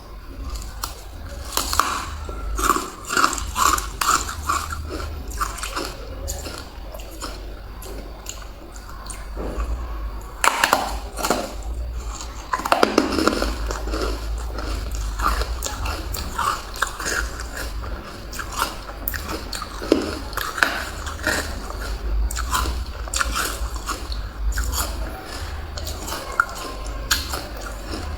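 Ice being bitten and chewed close to the microphone: a long run of sharp crunches and crackles, with denser bouts of chewing.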